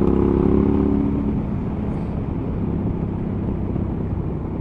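Suzuki V-Strom 1000's V-twin engine running at steady revs, its note easing off after about a second and a half and carrying on more quietly.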